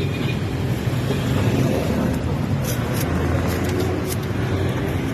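Steady low rumble of a running motor vehicle, with a few faint clicks about three to four seconds in.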